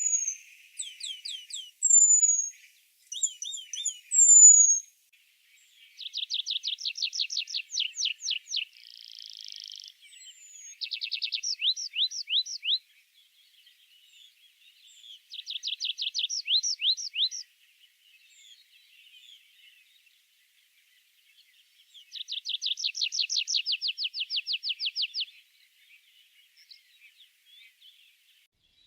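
Songbirds singing in a spring woodland: short high down-slurred whistles in the first few seconds, then four trilled songs of fast repeated notes, each about three seconds long, coming every few seconds with pauses between.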